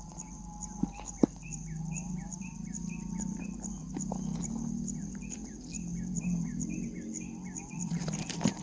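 A bird chirping in a rapid, even series of short calls, about three a second, over a steady high insect whine, with a few sharp clicks near the start.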